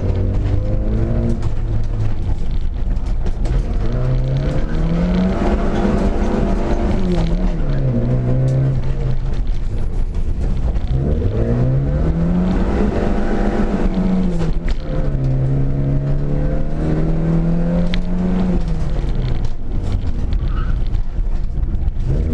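Škoda Felicia's engine heard from inside the cabin during a slalom run, revving hard and easing off as the car accelerates and slows. Its pitch climbs and drops several times, holds steady for a few seconds in the middle, and falls again near the end.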